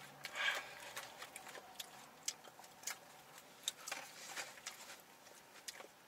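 Close-up eating sounds: irregular sharp clicks of chewing and mouth noises as fries are eaten, with two short rustles, about half a second in and about four seconds in.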